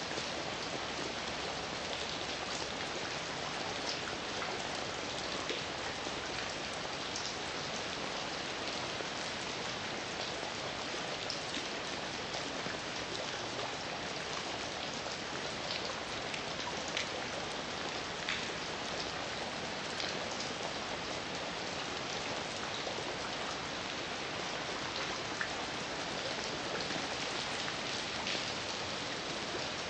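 Steady heavy rain falling, a dense even hiss with scattered louder drops ticking on a hard surface.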